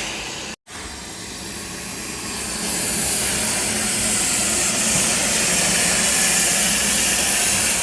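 Steam locomotive venting steam: a loud, steady hiss that builds up over the first few seconds and then holds, after a brief dropout about half a second in.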